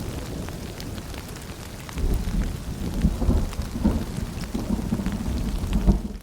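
Rain falling and dripping through foliage in a steady patter of drops. A deep, low rumble swells in about two seconds in and rolls on.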